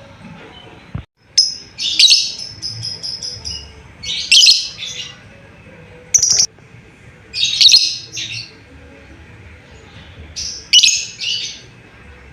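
Lovebird calling with loud, shrill chirps in short bursts every second or two, with a quick run of rapidly repeated notes about three seconds in.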